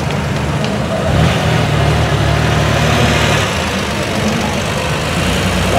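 Engine of a classic air-cooled Porsche 911 Targa running at low revs as the car rolls slowly past, the rumble strongest a second or two in and easing off.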